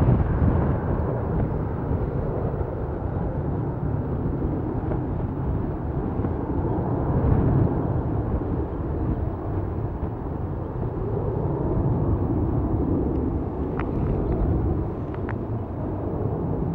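Boeing 737 jet engines at takeoff power as the airliner departs: a loud, steady low rumble that begins to ease near the end.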